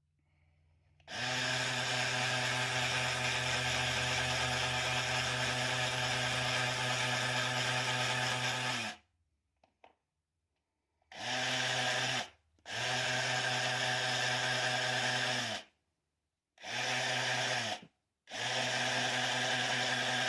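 Electric power tool motor running at a steady pitch: one run of about eight seconds, then four shorter runs of one to three seconds with brief stops between.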